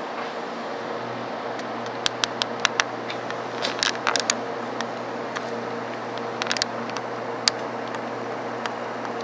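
Steady cabin noise with a low hum inside a Hikari Rail Star Shinkansen train, a 700-series set. From about two seconds in, a scatter of sharp clicks and small rattles, with a short cluster about four seconds in and a single louder click near the end.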